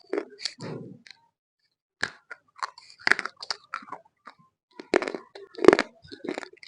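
Roasted multani mitti (fuller's earth clay) being bitten and chewed, in irregular sharp crunches with a pause of about a second near the start.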